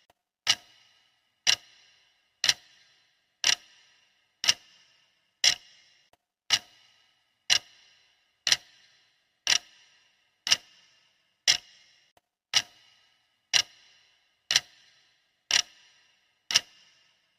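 Clock ticking at a steady one tick per second, each tick a sharp click with a brief ring that dies away before the next.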